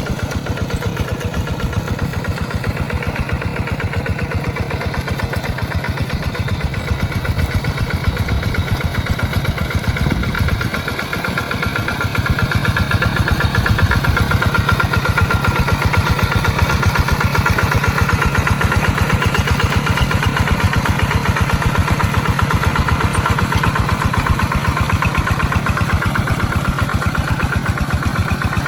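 Tractor engine running steadily with a rapid, even firing beat as it works a wet rice paddy. It dips briefly about ten seconds in, then runs a little louder for the rest.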